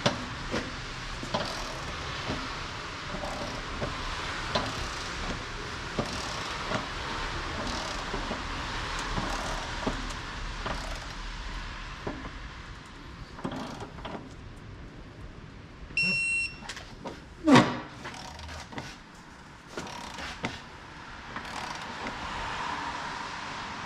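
Tools clicking and clanking during work under a car, over a steady hiss, with one louder knock about two-thirds of the way in. A short, high electronic beep sounds shortly before it.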